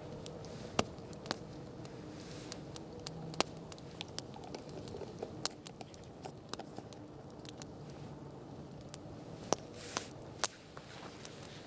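Wood campfire crackling: irregular sharp pops and snaps, a few louder ones about a second in, at three and a half seconds and around ten seconds, over a low steady rush of burning flames.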